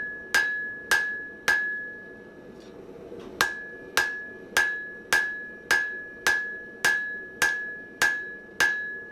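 Blacksmith's hammer striking hot mild steel on an anvil in a steady rhythm of a little under two blows a second, each blow ringing with a clear note that fades before the next. There is a short pause after the third blow before the hammering resumes. The bar is being drawn out.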